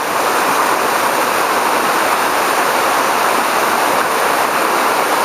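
Rushing water of a monsoon-fed waterfall, a loud, steady rush with no let-up.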